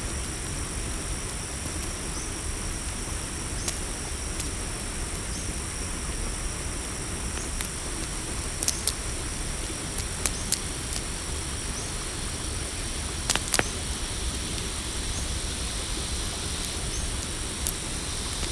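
Night cricket chorus chirring steadily in two high, unbroken tones over a low steady rumble, with the sharp pops of a crackling campfire coming now and then, several in quick pairs.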